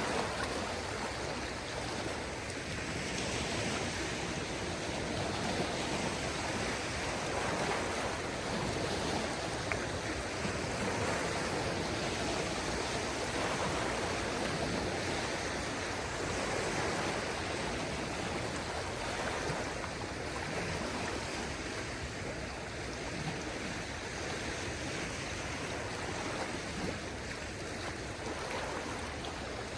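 Small waves of a calm sea washing onto the shore: a steady wash of water that swells and eases gently every few seconds.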